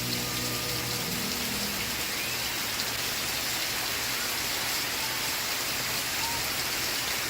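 Steady rain falling, an even hiss of drops with no let-up. The last faint notes of background music die away in the first two seconds.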